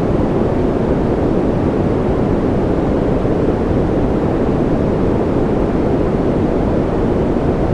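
Continuous white noise for infant sleep, steady and unchanging, deep and muffled with most of its weight in the low range and little hiss on top.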